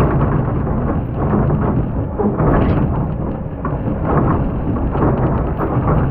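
Excavator working under load: its diesel engine drones steadily while the bucket grinds and scrapes through hard, compacted sand, with irregular crunches throughout.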